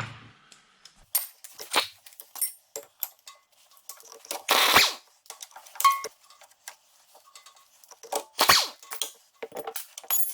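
Irregular sharp metallic clanks and knocks of hand tools working on the tractor's bolts and frame, some with a short ring, with two louder noisy bursts about four and a half and eight and a half seconds in.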